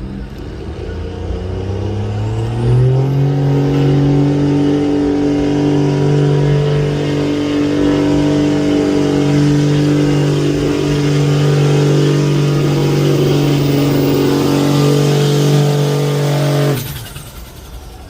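Competition pulling truck's engine revving up over the first few seconds and held at full throttle while dragging the sled, then cut off abruptly about a second before the end.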